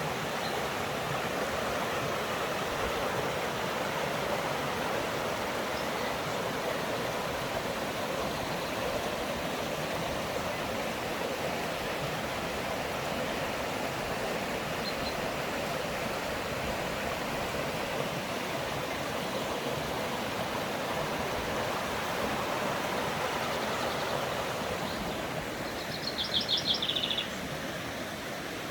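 Mountain stream rushing steadily over stones. Near the end a bird gives a short, rapid trill of high notes that falls slightly in pitch.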